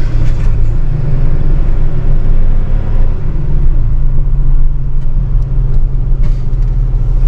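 Tow truck's engine running with a steady low hum.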